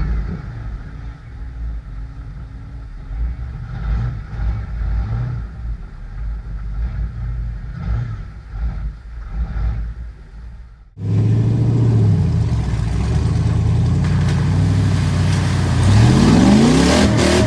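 Old Ford mud truck's engine running under load, with scattered knocks through the first part. About eleven seconds in, the sound cuts abruptly to a louder, steady engine note that revs up near the end.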